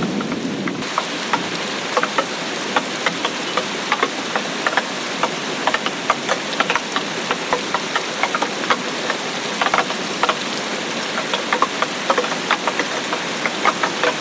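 Steady rain, with many separate drops landing close by as irregular sharp ticks over a constant hiss.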